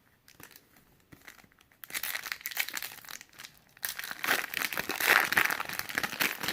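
Trading card pack wrapper being torn open and crinkled by hand: a few faint clicks, then dense crackling that grows louder over the last couple of seconds.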